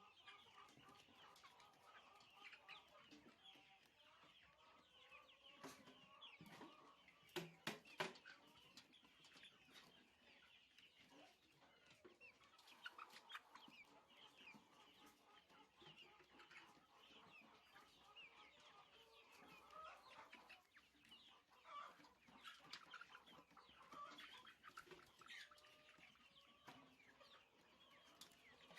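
A flock of chickens clucking and chirping, faint and continuous. A few sharp knocks come about a quarter of the way through.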